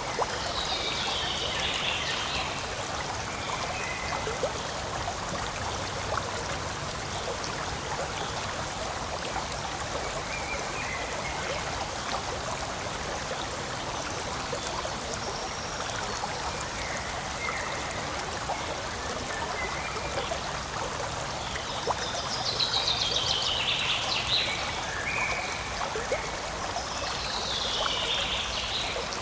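Forest stream water flowing and trickling steadily. A few brief high-pitched descending calls sound over it, about a second in and twice near the end.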